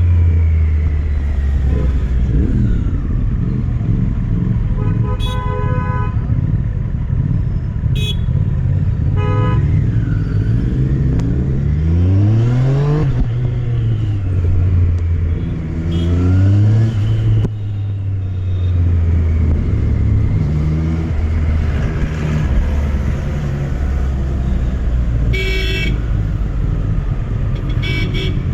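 Triumph Street Triple RS's three-cylinder engine running while riding, its pitch rising as it accelerates about twelve seconds in and dropping back after. Several short horn toots sound, the longest near the end.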